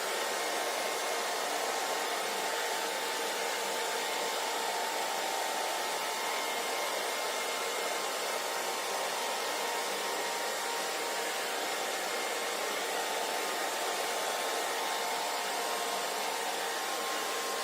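Handheld hair dryer running steadily, an even rush of blown air with a faint motor whine.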